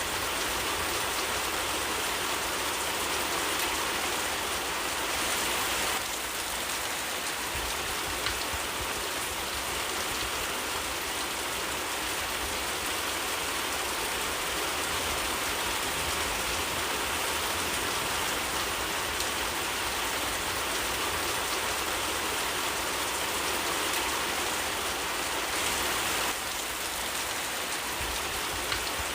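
Steady rainfall in a forest, an even hiss of countless drops, shifting slightly in level about six seconds in and again near the end.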